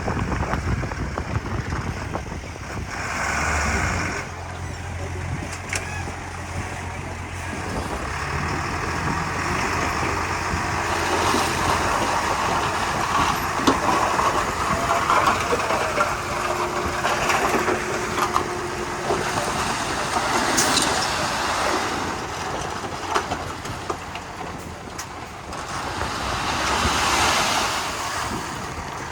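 Komatsu D31P crawler bulldozer at work, its diesel engine running under load, with scattered metallic clanks. It swells louder briefly about three seconds in and again near the end.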